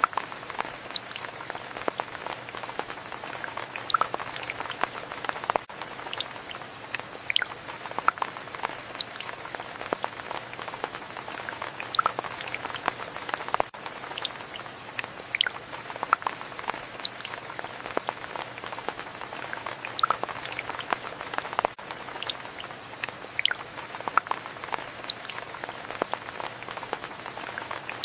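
Rain falling: a steady hiss with many separate drops tapping irregularly on a surface.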